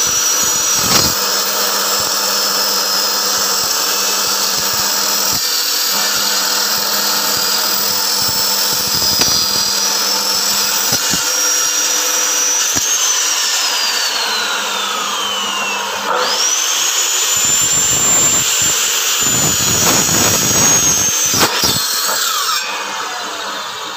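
Electric bone-cutting saw with a carbide-tipped aluminium-cutting blade running and cutting, with a high whine. About halfway through the motor's pitch falls as it spins down, then it starts again with a quick rise to a steady whine, and near the end it winds down.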